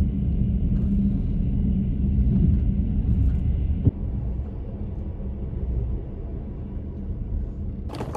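Steady low rumble of a moving passenger train, heard from inside the carriage, with a short click about four seconds in. Just before the end, the rattle of a wheeled suitcase rolling over paving stones takes over.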